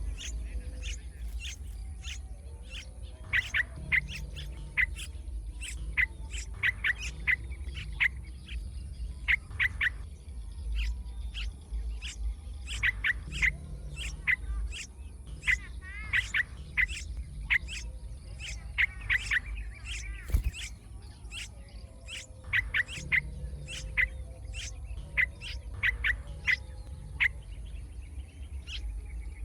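Small bird chirping in quick runs of short, sharp notes, the runs coming again every second or two, over a steady low wind rumble. A single knock about 20 seconds in.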